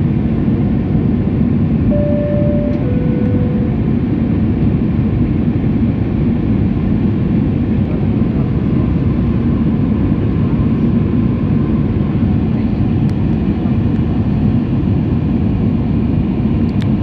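Steady cabin noise of an Airbus A319 airliner in flight, its engine and airflow noise heavy in the low end. About two seconds in, a two-note falling cabin chime sounds once.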